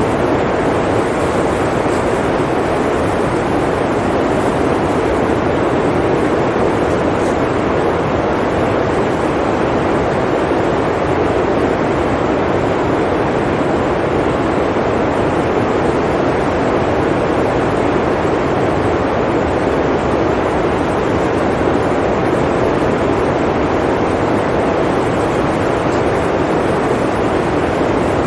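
Blizzard wind blowing: a steady, even rushing noise that holds at one level without gusts or breaks.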